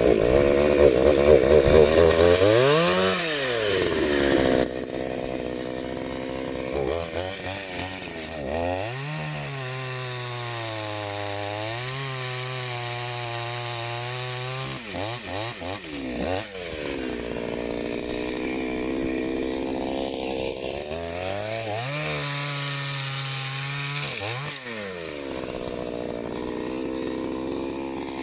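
Chainsaw running at full throttle for the first few seconds, then dropping to idle and being revved up and back down several times.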